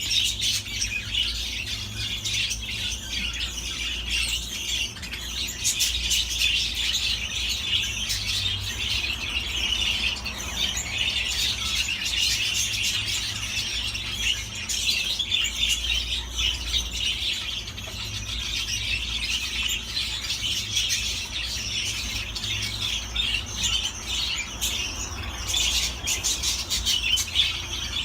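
Budgerigars chattering and warbling without a break, a dense mix of rapid chirps, twitters and squawks, over a steady low hum.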